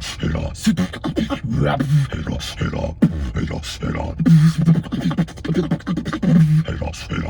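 Beatboxing: a fast rhythm of vocal kick and snare clicks and hissed hi-hats, with short hummed bass notes woven in.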